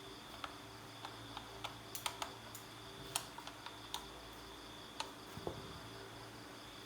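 A dozen or so light, irregular clicks and taps of small parts or tools being handled during the blower repair, with a duller knock about five and a half seconds in. Under them runs a steady high chirring of crickets.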